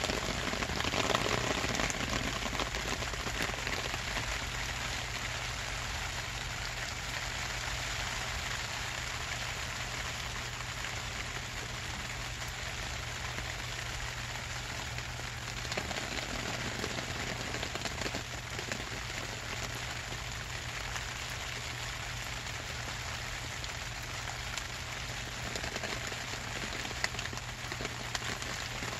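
Steady rain falling and pattering on the plastic sheeting of a makeshift shelter over the camera, with a low steady rumble underneath.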